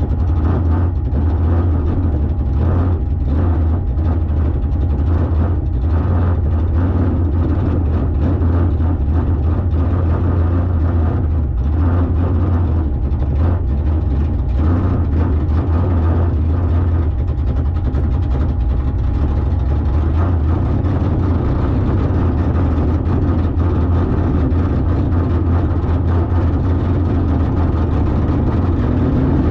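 A car engine running steadily at idle, a deep and even low hum with no revving.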